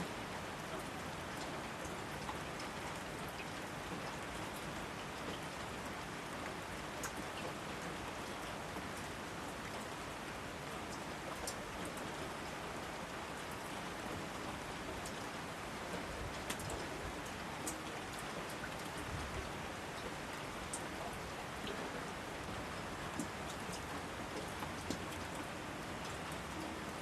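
Steady rain falling, with a constant hiss and scattered close, sharp drips and drops landing among it.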